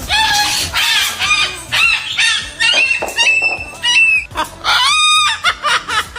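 A bird calling over and over in short, high squawks and honks, with a longer held call about five seconds in.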